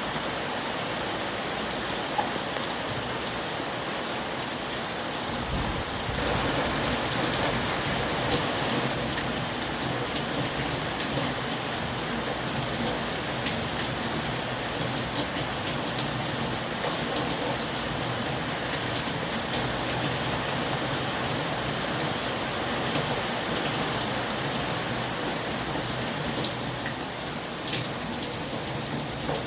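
Heavy rain falling steadily on a surface, a dense hiss with many separate drop hits, growing louder and fuller about six seconds in.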